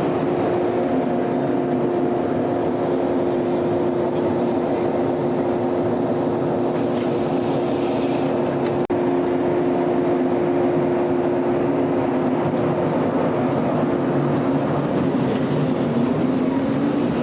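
Old JNR-type electric train running, a steady whine over a dense rumble, with the whine rising in pitch near the end. The sound breaks off for an instant about halfway through.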